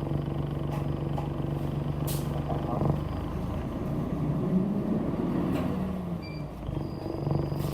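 City bus engine heard from inside the cabin as the bus moves off, a steady hum whose pitch shifts for a few seconds midway before settling again, with a couple of sharp clicks.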